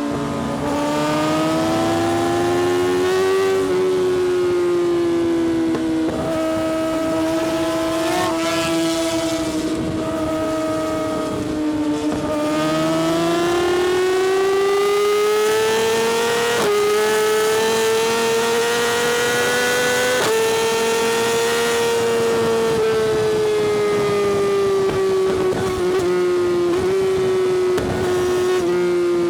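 Yamaha R6's inline-four engine with an Akrapovič exhaust running at high revs under way. Its note rises and falls slowly, with a few sudden small jumps in pitch.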